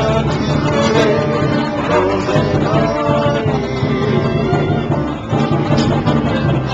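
Live band performing a Hawaiian song: singing over plucked guitar accompaniment.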